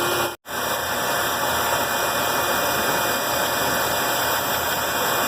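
Band saw running steadily as a board is fed through the blade, an even machine noise, broken once by a short dropout about half a second in.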